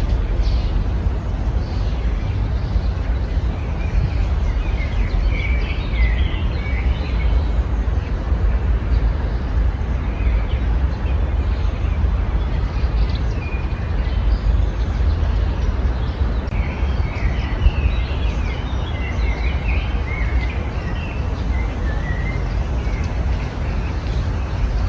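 Small songbirds chirping and twittering in scattered bursts, busiest about a quarter of the way in and again past the middle, over a steady low rumble.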